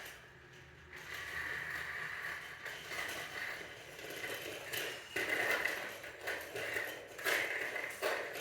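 Train running, heard from inside the carriage: a steady rattling rumble with several sharp knocks in the second half.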